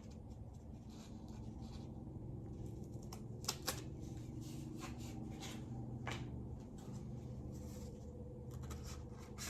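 Sandpaper rustling and crinkling as it is handled and cut into a piece for hand sanding, with a few sharp clicks, over a steady low hum.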